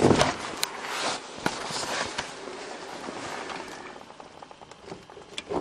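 Gasoline squirted into the carburetor of a 1977 Dodge Tradesman's slant-six engine to prime it for a cold start: a hissing, splashing liquid sound with a few small clicks that fades away over about four seconds.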